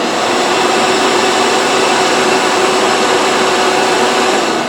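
Hoover Preferred upright vacuum cleaner running at full speed with no bag fitted: a loud, steady motor whine over a rush of air, beginning to wind down at the very end. The motor and fan sound healthy, with no sign of a broken fan.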